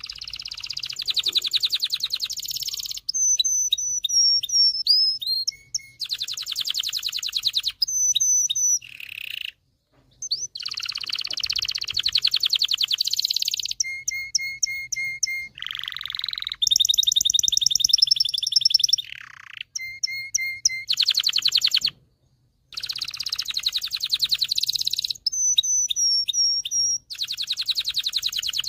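Male domestic canary singing, a song of rapid trills and rolls alternating with clear whistled notes and short sliding calls, in phrases of a few seconds with brief pauses between them.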